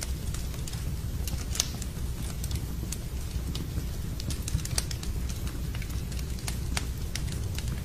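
Wood fire crackling in a fireplace: irregular sharp pops and snaps, several a second at times, over a steady low rumble.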